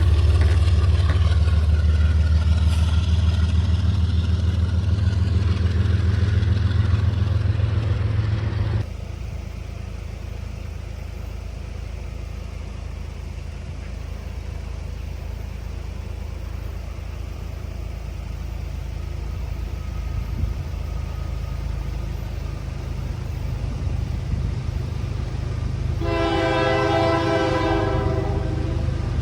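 Diesel freight locomotives running loud with a deep engine hum, which drops abruptly about nine seconds in to a quieter steady rumble of the train. Near the end a locomotive air horn sounds one chord for about three seconds.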